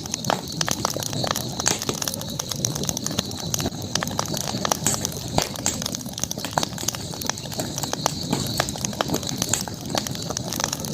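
Campfire crackling: irregular sharp pops and snaps over a steady high-pitched hiss.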